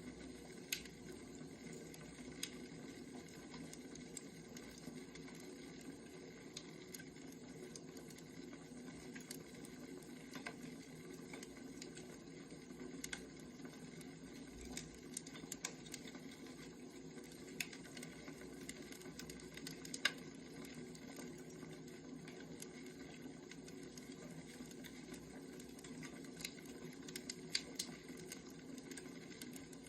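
Firewood burning, crackling with irregular sharp pops and snaps over a steady low hiss.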